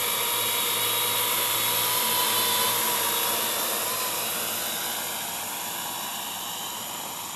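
Parrot AR.Drone quadcopter's four electric motors and propellers whirring steadily in flight, with a thin high whine running through it. The sound grows gradually fainter over the last few seconds.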